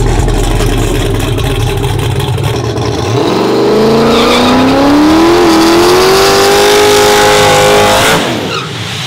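Turbocharged LS V8 drag truck launching and accelerating hard: a low rumble, then from about three seconds in the engine note climbs steadily, with a brief dip around five seconds, before dropping away suddenly near the end.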